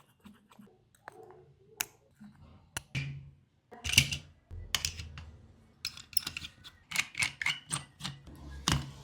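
Sharp clicks, taps and short scrapes of repair tools and parts being handled on an iPhone 13 Pro during a back glass replacement, sparse at first and busier from about halfway through.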